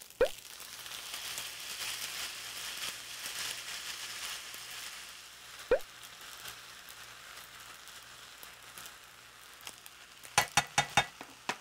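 Fried rice sizzling in a nonstick frying pan, a steady hiss that is stronger in the first half. There are two short squeaks, and near the end a quick run of about six sharp taps as sambal sauce is knocked out of a small jar into the pan.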